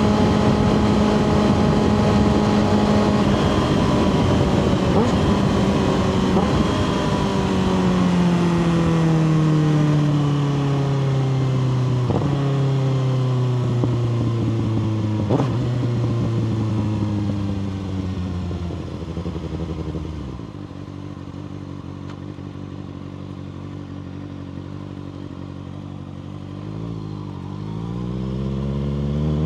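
2024 Kawasaki ZX6R inline-four, through a Two Brothers slip-on exhaust, holding steady revs, then slowing with the engine note falling gradually and a couple of sharp clicks along the way. It settles to a quieter low-rev tone for several seconds, then revs rise again near the end as the bike pulls away.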